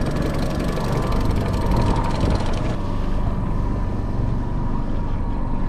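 Power boat's motor running steadily at trolling speed, a continuous low rumble under a hiss of wind and water.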